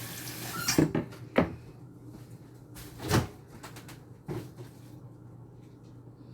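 Kitchen tap water running, shut off about a second in, followed by a few separate knocks and clunks of kitchen handling, four in all, with small clicks between.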